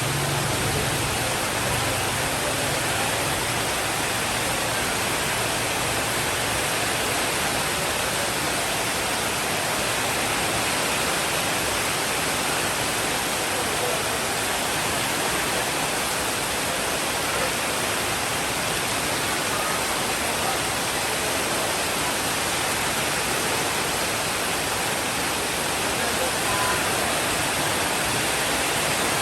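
Steady rainfall, an even constant hiss without pause. A faint low rumble sits underneath for the first seven seconds or so, then fades.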